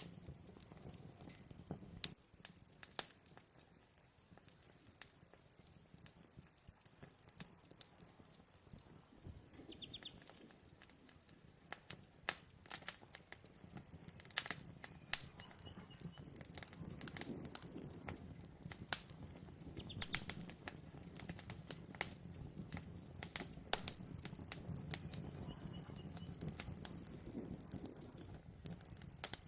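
Crickets chirping in a fast, steady, high-pitched pulse that breaks off briefly twice, about 18 and 28 seconds in, over the irregular crackle and pops of a campfire.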